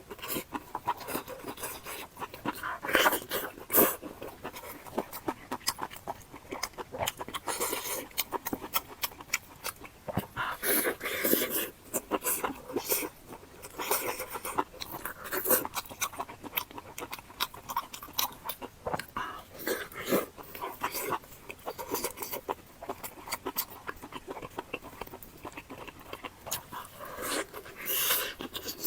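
Close-miked eating mouth sounds: chewing and smacking, made up of irregular clicks and short bursts.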